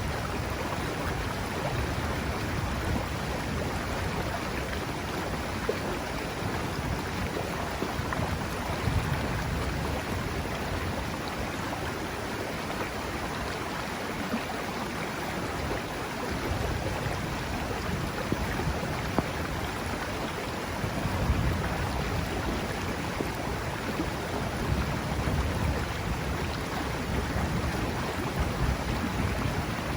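River water rushing steadily with rain falling, a constant even noise, with occasional low rumbles.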